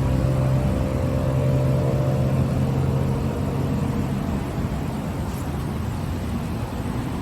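Car engine running steadily, with a steady hum that fades out about halfway through.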